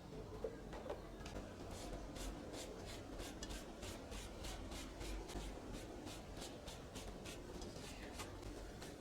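Repeated back-and-forth scraping or rubbing strokes, about three a second, beginning about a second in: hand work on a surface, like filing or sanding.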